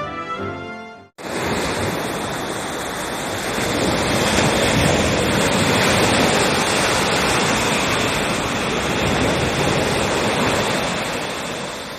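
Sea surf washing onto the shore: a steady, loud rush of waves that swells a little midway.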